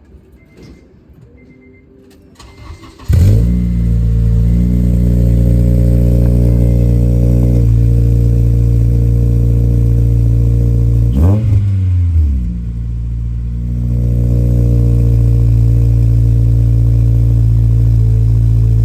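Honda Civic Si's four-cylinder engine starting about three seconds in, on its first start through a newly fitted header, test pipe and full exhaust, then idling loud and steady. There is one quick throttle blip partway through. A few faint beeps come before the start.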